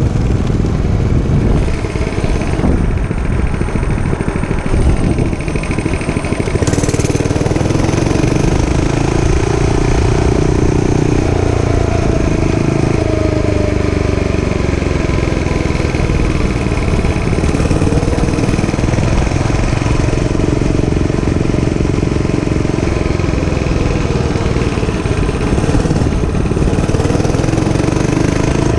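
Gas dirt bike engine running as the bike is ridden, its pitch rising and falling with the throttle.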